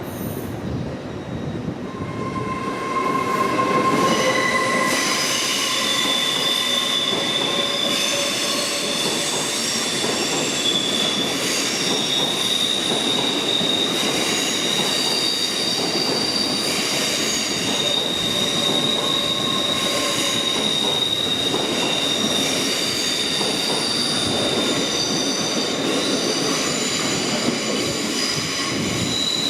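A train running through the station with its wheels squealing on the rails, in several high steady tones over the rumble of the wheels. It grows louder about three seconds in and then holds.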